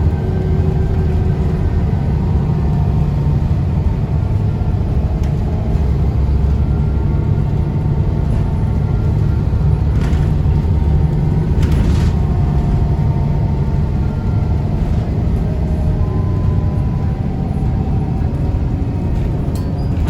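Scania L94UB bus's DSC9 nine-litre six-cylinder diesel running steadily under way, a deep rumble with faint whining tones that drift slowly in pitch. A couple of short clicks come about halfway through.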